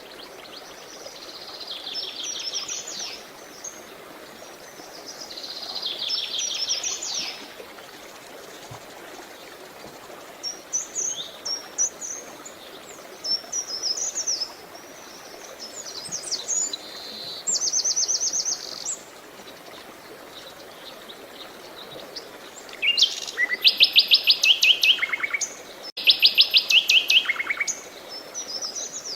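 Birds singing over a steady hiss of running water. A series of short, trilled songs comes and goes, with two loud, rapid trills near the end.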